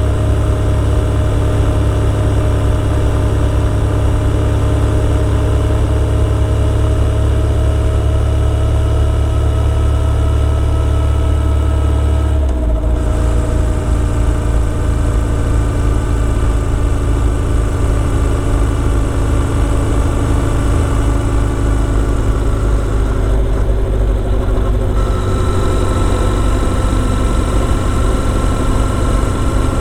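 Motorcycle engine running steadily under way, its note sinking slowly. The low drone changes abruptly about twelve seconds in.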